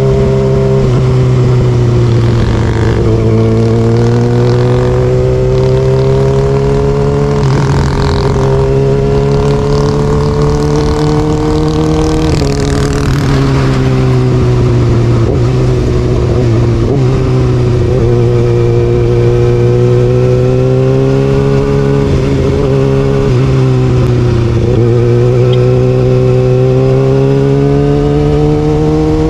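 Kawasaki Ninja ZX-6R's inline-four through an Austin Racing aftermarket exhaust, under way: the engine note climbs steadily through the revs and drops sharply about five times, with brief rushes of wind noise.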